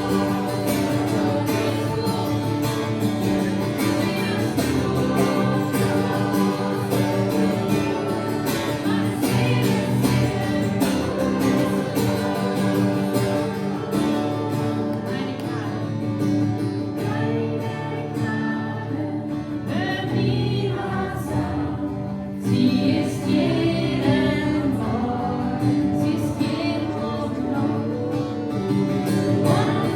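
Live worship song: a group of voices singing together over instrumental accompaniment with guitar.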